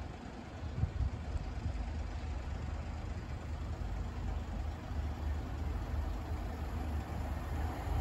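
Low rumble of an approaching Northern Class 195 diesel multiple unit, growing slowly louder toward the end.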